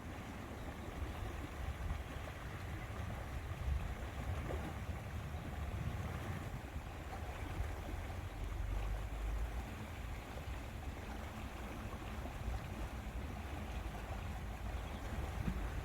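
Lakeside ambience: steady wind with a deep rumble on the microphone and the soft wash of lake water.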